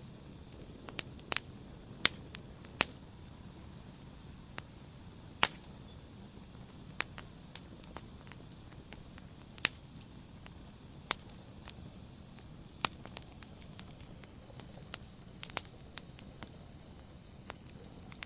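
Fire crackling in a fireplace: sharp, irregular pops and snaps, about one or two a second, over a low steady hiss.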